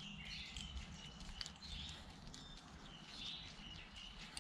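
Faint birds chirping over a low, steady background hum.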